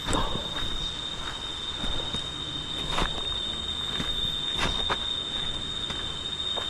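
Steady high-pitched insect drone, typical of a cicada, over an even hiss, with scattered sharp clicks and knocks.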